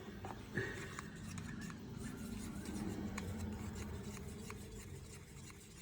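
Faint scraping and rubbing with scattered light clicks as plastic paint cups and bottles are handled.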